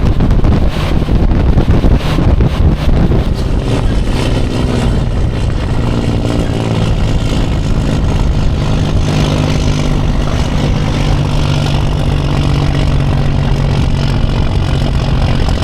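Semi truck's diesel engine running under way, a steady drone, with gusty wind buffeting the microphone during the first few seconds before the engine sound settles and evens out.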